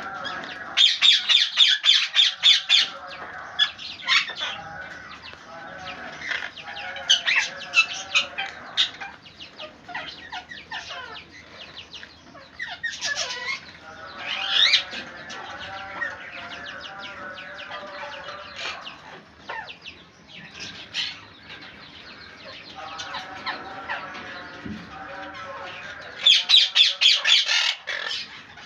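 A pair of parrots squawking and chattering while they play-fight. Loud bursts of rapid harsh squawks come about a second in and again near the end, with shorter squawks and rising calls in between.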